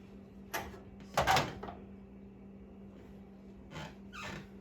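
A few short knocks and clatters of kitchen containers and utensils being handled, the loudest a little over a second in and two softer ones near the end, over a steady low hum.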